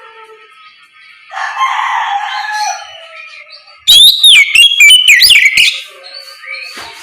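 Oriental magpie-robin (kacer) singing: a harsh, rasping phrase about a second in, then loud, clear whistled notes sliding up and down in the middle.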